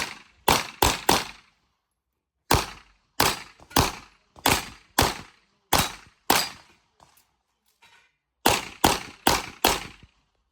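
Pistol-calibre gunshots fired in quick strings during a practical-shooting stage run. There are three fast shots, a brief pause, seven shots about half a second apart, a longer pause, then four more fast shots.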